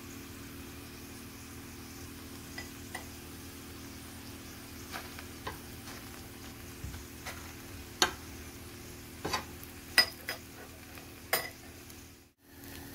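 Garlic-butter paratha frying on a pan with a faint steady sizzle over a low hum. A few sharp clicks of a utensil against the pan come between about 8 and 11 seconds in.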